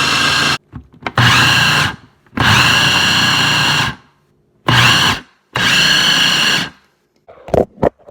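Blender motor running, then cut off and pulsed in four short bursts, each spinning up with a rising whine, as it blends ice cream bars and milk into a milkshake. A few sharp clicks near the end.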